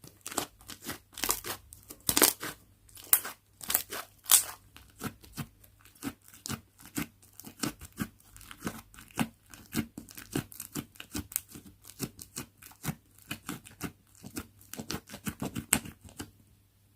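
Slime being squeezed and stretched by hand, a rapid run of crackling pops and clicks, several a second, that stops just before the end.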